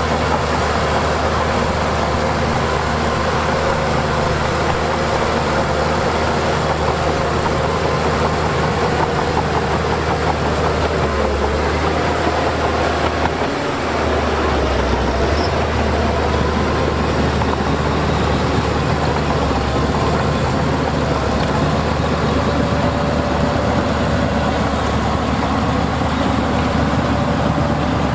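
Heavy diesel construction machinery, bulldozer and dump trucks, running steadily at work, with a brief drop in level a little past halfway.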